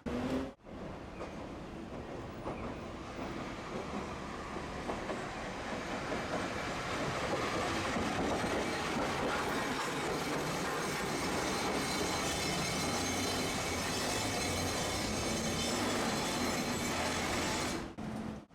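Tosaden streetcar running on its rails: rumbling wheel-on-rail noise that grows louder over the first several seconds and then holds steady, with a thin high wheel squeal over it in the second half.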